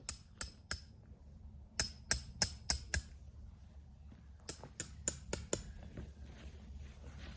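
Three quick runs of sharp metallic strikes, about three a second, each ringing briefly and high.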